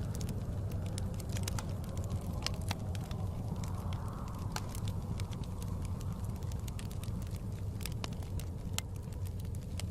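Wood fire crackling in a fireplace, with frequent sharp pops and snaps over a steady low rumble of blizzard wind that swells briefly about four seconds in.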